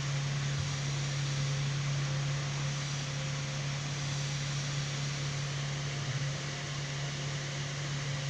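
Steady low machine hum with an even hiss, unchanging throughout; no bird calls stand out.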